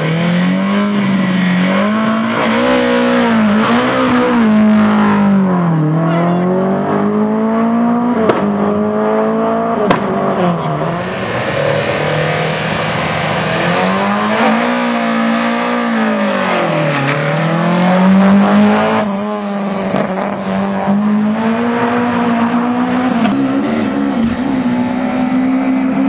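Lada VFTS rally car's four-cylinder engine driven hard, the revs climbing and then falling away several times as the car accelerates and slows between corners.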